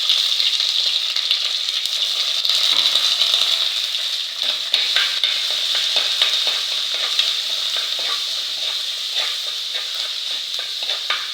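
Ginger-garlic paste frying in hot coconut oil in a pan: a steady loud sizzle. From about four seconds in, a spoon stirring it scrapes and clicks against the pan.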